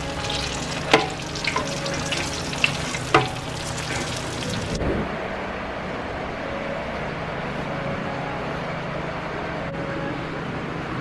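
Battered food deep-frying in hot oil in a nonstick pan, a steady sizzle with a few sharp clicks of a metal slotted spoon against the pan. About five seconds in, the sizzle cuts off abruptly and a duller steady room noise takes its place.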